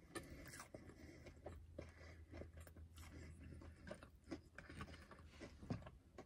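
Quiet close-up chewing of a Korean corn dog: irregular soft mouth clicks and small crunches, over a faint low hum.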